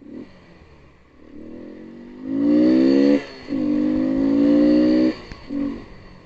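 Car horn honking: two long blasts followed by a short toot, each starting and stopping abruptly, over road traffic noise.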